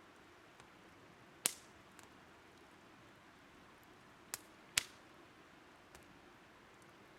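Wood fire crackling: three sharp pops, one about a second and a half in and two close together just past the middle, with a few faint ticks, over the faint steady rush of a river.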